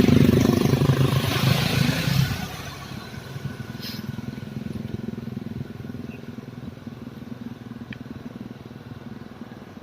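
A motor vehicle engine, likely a motorcycle, running loud for the first couple of seconds. It then drops to a steady, quieter running sound.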